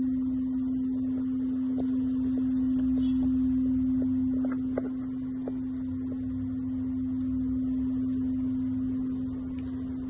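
Singing bowl ringing with one steady, sustained tone, over a low rumble and a few faint clicks.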